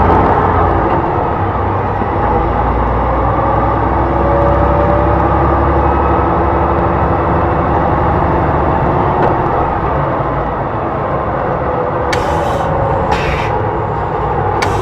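Hyundai Blue City low-floor hybrid bus running on its Euro 6 G240 CNG engine and electric drive motor: a steady drone with a faint gliding whine a few seconds in. Two short hisses of air come near the end.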